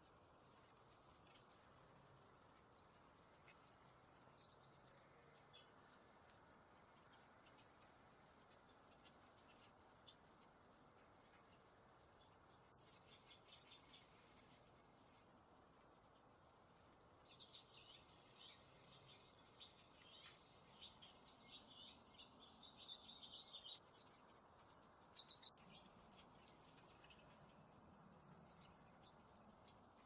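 Faint, scattered high-pitched chirps from small songbirds, coming in quick clusters at times, with a softer run of lower notes in the middle.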